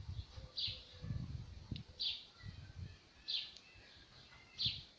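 Small bird repeating a short, high chirp, four times about a second and a half apart, over a low rumbling background.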